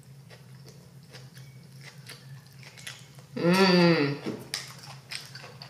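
Close-up mouth sounds of a person biting and chewing a burger: soft wet clicks and smacks throughout. About three and a half seconds in there is a brief, loud hum-like vocal sound from the eater.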